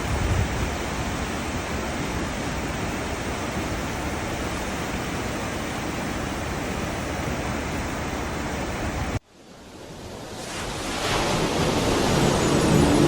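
Steady rushing of a cruise ship's wake churning through the sea, cutting off suddenly about nine seconds in. Music then fades in, growing steadily louder.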